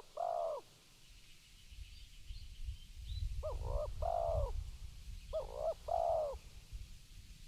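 Spotted dove (tekukur) cooing: three two-part coo phrases, each a short coo followed by a longer one, about two seconds apart, the first clipped at the start. A low rumble runs underneath in the middle, with faint high chirps from other small birds.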